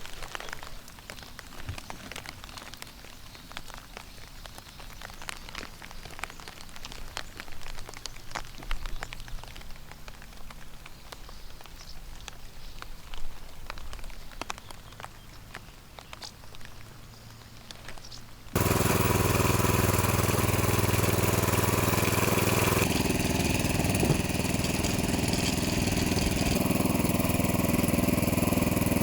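Scattered raindrops pattering. About two-thirds of the way through they are abruptly replaced by a motoblock (walk-behind tractor) engine running steadily and much louder.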